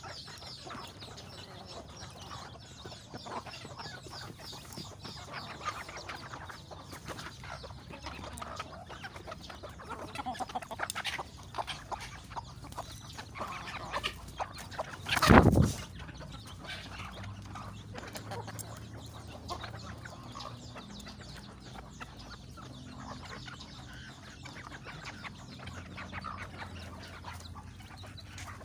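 Domestic chickens clucking continually around their feed, with one short, sudden loud noise about halfway through.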